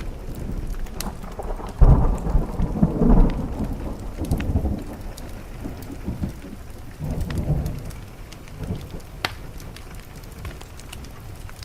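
Thunderstorm: a peal of thunder breaks about two seconds in and rumbles for a few seconds, then a softer rumble follows near seven seconds. Underneath is steady rain on a window, with scattered sharp crackles from a wood fire.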